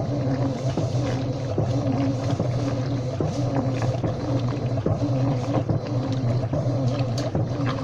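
Washing machine running: a steady motor hum with a tone that pulses about twice a second, and scattered light clicks.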